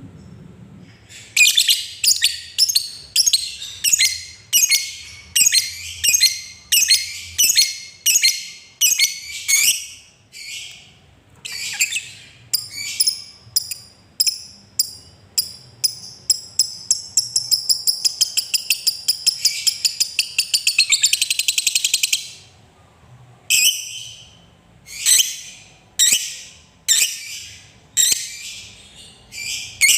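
Lovebird calling: shrill chirps repeated about twice a second, then a long, fast chattering run of about ten seconds (the 'ngekek' trill prized in fighter lovebirds), then separate chirps again after a short pause.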